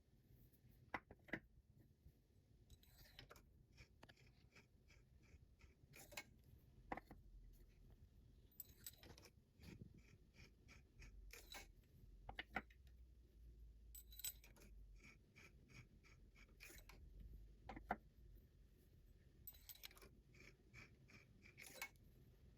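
Faint clicks and several short runs of quick ticking from the small parts and tools being handled while engine valves are checked for runout.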